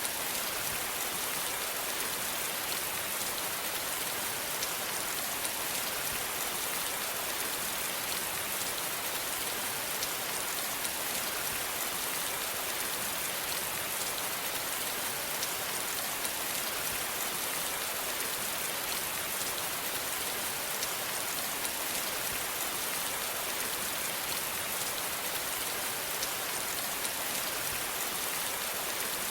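Steady rain falling on a surface, an even hiss with many small drop patters, unchanging throughout.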